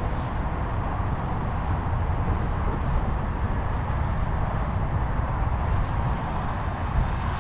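Electric ducted fan of a Freewing T33 Shooting Star RC jet in flight: a thin high fan whine over a steady rushing sound, pitching slightly upward later on, with a heavy low rumble underneath.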